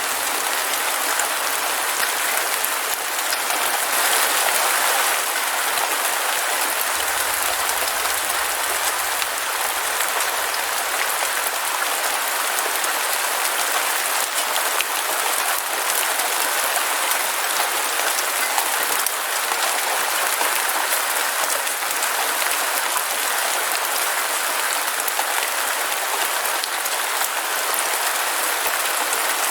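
Heavy rain falling steadily, a dense even patter with no breaks.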